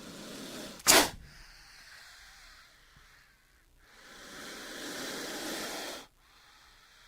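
King cobra hissing: a breathy hiss broken by a sudden loud sharp burst about a second in, then a second, longer hiss that cuts off suddenly at about six seconds.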